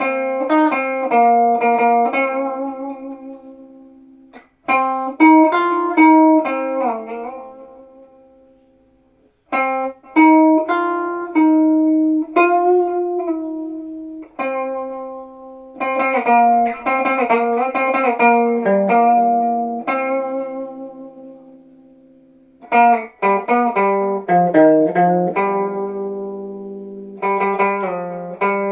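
A plucked string instrument played solo: short melodic phrases in a C (Do) pentatonic scale, some notes wavering in pitch, each phrase left to ring and fade before the next begins.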